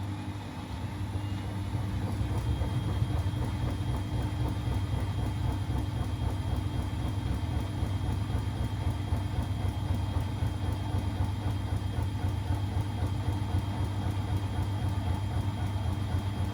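Siemens Extraklasse XLS 140 A washing machine running in its 90 °C boil-wash programme: a steady low hum and rumble that grows louder about a second or two in, then holds.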